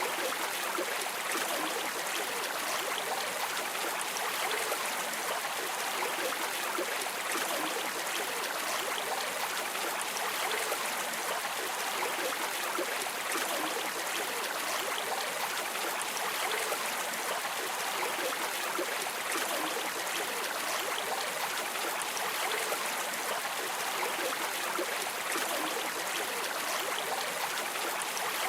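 A river stream flowing, a steady rushing burble with no breaks.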